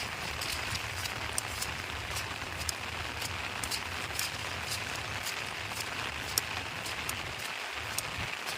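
Steady rain falling, an even hiss with many separate drops ticking sharply, over a low steady rumble.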